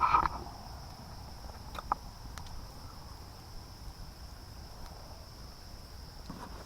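Steady, high-pitched insect chorus droning without a break, with a few faint ticks over it.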